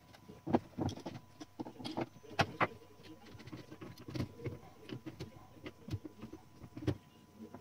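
Irregular clicks, taps and light metallic clatter of small typewriter parts and hand tools being handled during reassembly, with a few sharper knocks.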